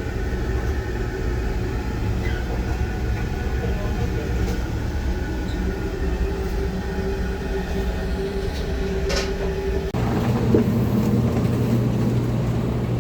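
Taiwan High Speed Rail train running: a steady low rumble with a constant hum. About ten seconds in the sound changes abruptly to a louder, deeper steady drone.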